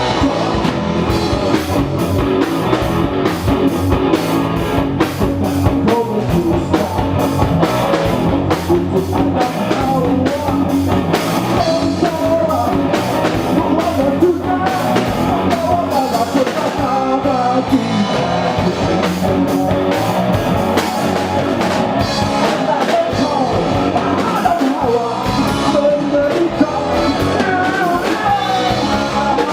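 A live band playing a rock song: a singer over a drum kit and guitar, at a steady, loud level.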